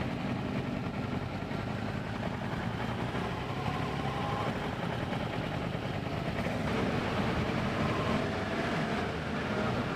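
Motorcycle on the move: engine running under steady riding, mixed with wind and road noise.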